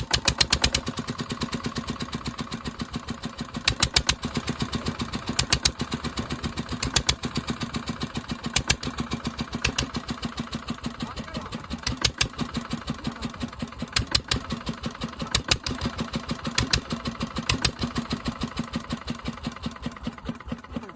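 Petter diesel engine running steadily after starting, with a rapid even beat and a louder knock about every second and a half.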